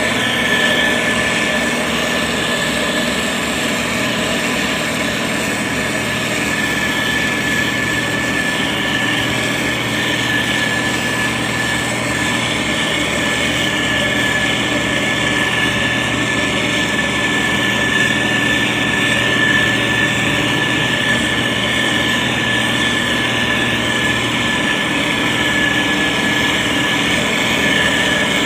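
SANY STG190C-8S motor grader's diesel engine running steadily, with a steady high whine over the engine noise.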